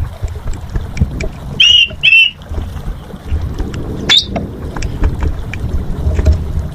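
Pied starling (jalak suren) calling: two loud whistled notes about two seconds in, then a sharp upward whistle about four seconds in, with scattered short clicks. A low rumble like wind on the microphone runs underneath.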